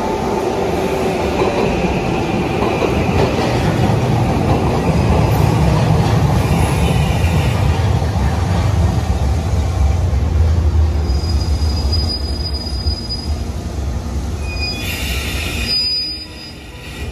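A train passing close by: a loud, steady rumble of wheels on rails that builds over the first few seconds, holds, and drops away sharply near the end, with a few thin high squeals in the last few seconds.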